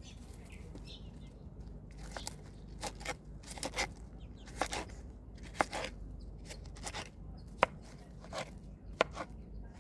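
A knife chopping a honeydew melon into pieces for chickens: irregular sharp cuts and cracks, starting about two seconds in, at roughly one or two a second.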